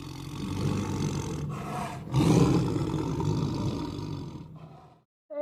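An animal growling: two long, rough, rasping growls, the second starting about two seconds in and louder, fading away near the end.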